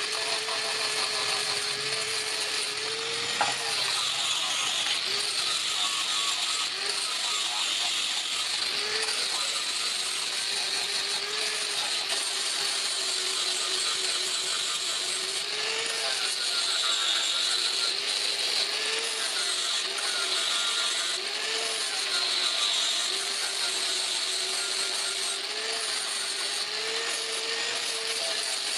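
A motor-driven machine running continuously, its tone rising and falling every second or two over a steady hiss.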